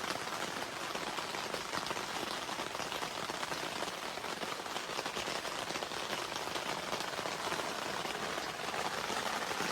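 Heavy, torrential rain falling steadily, a dense even hiss of drops striking the ground and surfaces around the campsite.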